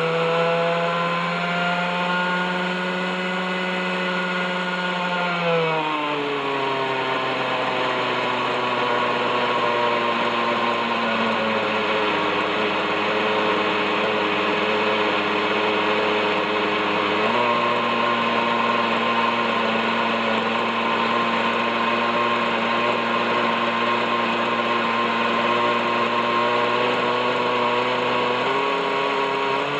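OS 61SF two-stroke glow engine of a model helicopter running steadily at hover, with the rotors turning. The engine's pitch sags markedly about six seconds in, then steps up slightly twice, the second time near the end. The engine was revived after some thirty years unmaintained and still has rust-stiffened bearings.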